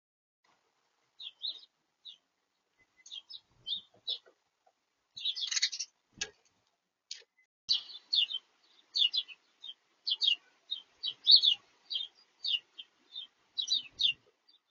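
Small songbirds chirping at a feeder: a run of short, high chirps that starts about a second in and comes several times a second in the second half, with one sharp click near the middle.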